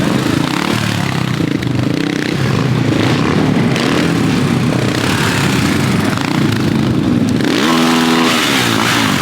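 Loud vehicle engine exhaust revving up and down, with one sharp rev that rises and falls in pitch near the end.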